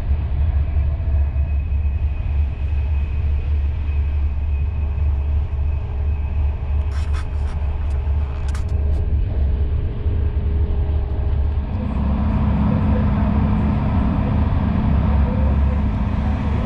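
Steady low rumble of a loco-hauled intercity passenger coach running at speed, heard from inside the carriage. A few faint clicks come about seven to nine seconds in. About twelve seconds in, the running noise gets louder and a droning hum joins it.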